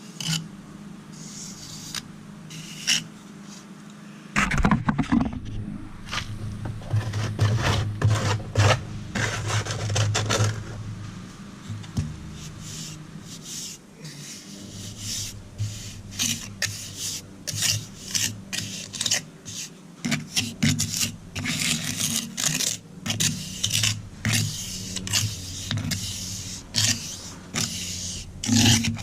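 A hand tool scraping and rubbing over concrete and cement in repeated short strokes, about one to two a second, heaviest between about four and ten seconds in.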